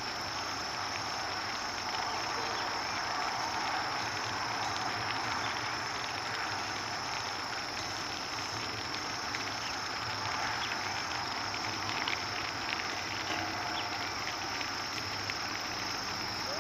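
Outdoor ambience: a steady high-pitched insect drone over an even rushing hiss, with a few faint ticks.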